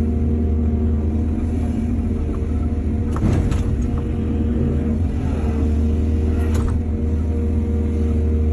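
Excavator's diesel engine running steadily under load, with two louder knocks, one about three seconds in and one about six and a half seconds in.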